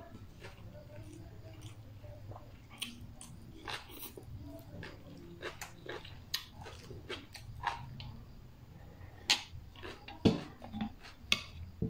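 Eating sounds up close: chewing and lip smacking with scattered small wet clicks, and a few louder knocks near the end as a spoon and ceramic bowl are handled, over a low steady hum.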